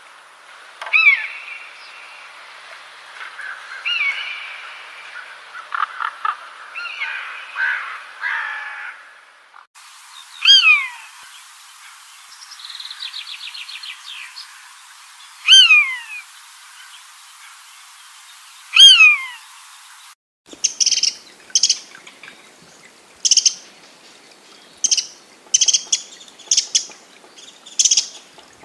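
Bird calls from three recordings in turn. First come several overlapping calls, then one clear note that slides downward and repeats every few seconds, and near the end a fast series of short, high chirps.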